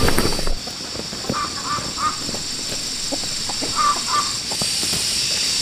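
Short, harsh bird calls: a run of three about a second in and a pair around four seconds in. Behind them is a steady high-pitched hiss and a few light knocks.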